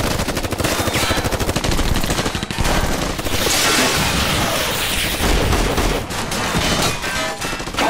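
Sustained rapid gunfire: automatic weapons from several shooters firing at once in a firefight. There is a louder, hissing burst of noise about three and a half seconds in.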